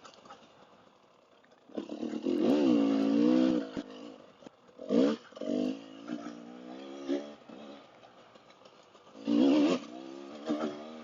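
Dual-sport motorcycle engine revving in bursts on the throttle. It is quiet for the first second and a half, then a long rev rises and dips in pitch, with shorter blips around five seconds and again near nine seconds, and a lower running note between them.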